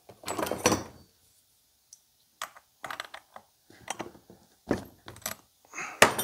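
Tools and small parts clicking and rattling as a chainsaw is taken apart by hand, in short scattered bursts with the loudest clatter about half a second in.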